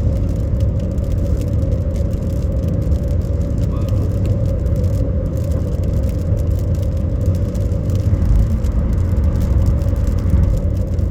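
Steady low road and engine rumble inside a moving car's cabin, even in level with no sharp strikes.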